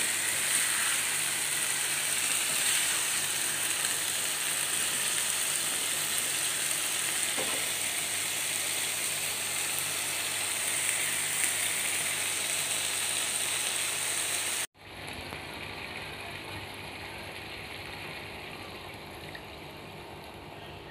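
Chicken and chilli spice paste sizzling in a frying pan, a steady frying hiss. About fifteen seconds in it cuts off abruptly, and a much fainter hiss follows.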